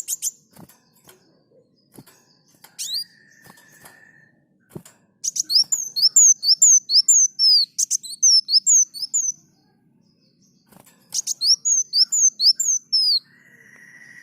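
Kolibri muncang sunbird singing: sharp, high chip notes, then two fast runs of quick, high sweeping chirps, with a short buzzy held note before them and another at the end.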